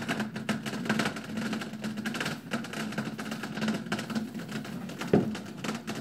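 Firework going off with rapid, irregular crackling pops, several a second.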